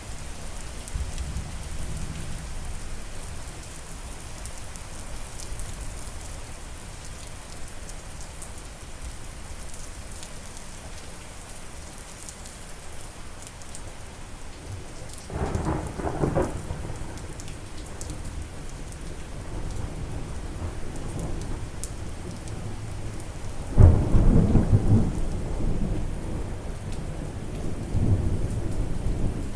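Steady rain with thunder: a rumble about halfway through, then a louder thunderclap near the end that rolls on for several seconds.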